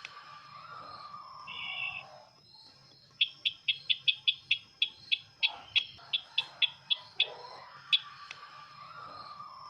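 Lure recording of the field sisintar's call: runs of sharp, high chip notes about four to five a second, a short buzzy trill, and a lower whistled note. The phrase repeats about every eight seconds.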